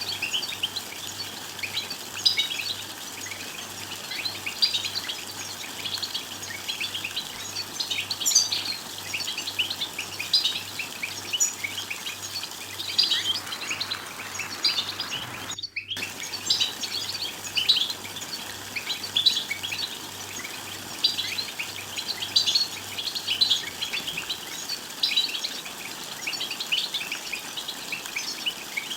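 European goldfinches twittering: a dense run of quick, high chirps and trills, many overlapping. The sound drops out for an instant about halfway through.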